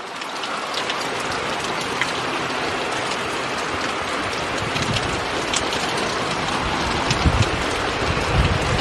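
Steady downpour of heavy rain. A few brief low thuds come near the end.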